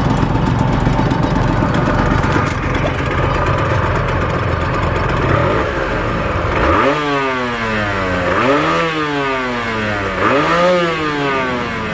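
Honda NSR250R MC28's two-stroke V-twin engine idling, then revved three times, each blip a rising then falling pitch, the first about seven seconds in.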